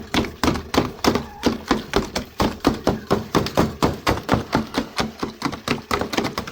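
Rapid repeated knocking, about four or five knocks a second, as frozen water is broken up to free a water dish from its ice.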